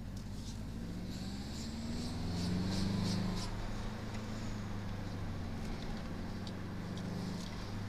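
Subaru Impreza WRX STi's turbocharged flat-four boxer engine running under load, heard from inside the cabin; the revs rise about two seconds in, peak around three seconds, then settle to a steady pull. A few light ticks sound over it early on.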